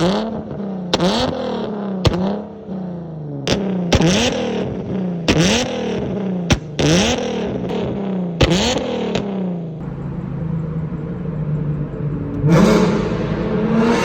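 Nissan 370Z's 3.7-litre V6 through a straight-piped Tomei exhaust, revved in a string of short throttle blips about one a second, each a sharp rise and fall in pitch with cracks from the exhaust. It drops to a steady idle for a couple of seconds, then near the end is revved up and held with the pitch slowly climbing.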